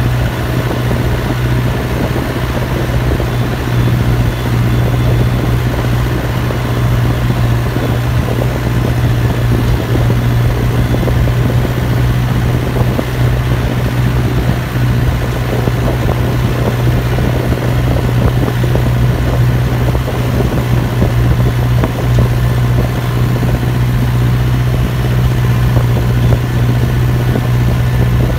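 Massey Ferguson 5430 Dyna-4 tractor's turbocharged Perkins diesel engine running steadily with a deep, even hum.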